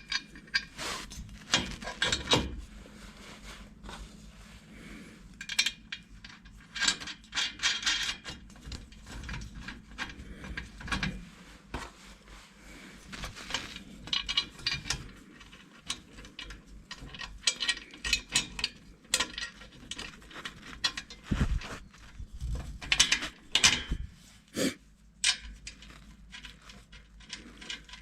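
Hand tools working on exhaust fittings: irregular metallic clicks and clinks, with short runs of rapid ratchet-like clicking, as bolts are worked during a muffler swap.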